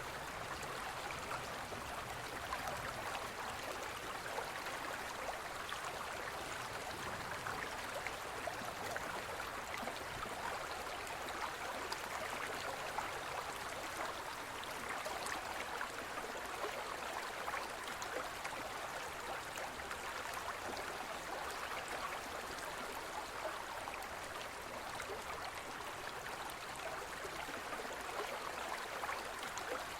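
Shallow forest stream flowing steadily, with a continuous babbling and trickling of water over stones.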